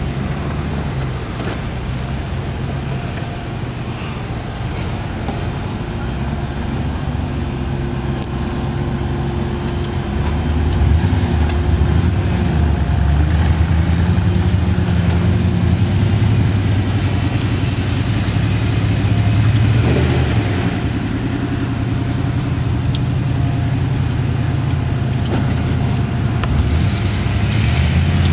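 Lifted Jeep Grand Cherokee's engine working under load as the vehicle crawls up a rock wall. It runs steadily, then revs harder and louder from about ten seconds in, and eases back to a lower, steady level at about twenty seconds.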